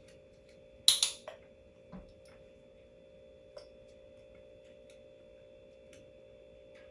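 A sharp click about a second in, followed by a softer knock and a light thump, like small hard objects on a tabletop, over a faint steady hum.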